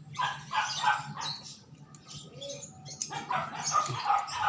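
A dog barking in two bouts of short barks, one at the start and another about three seconds in.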